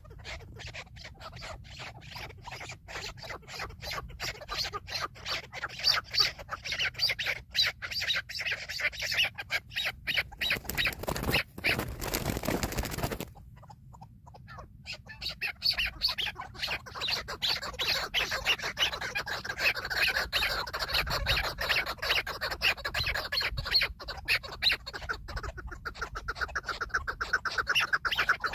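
Chukar partridges calling in a fast run of clipped, clucking notes, with about two seconds of rushing noise near the middle.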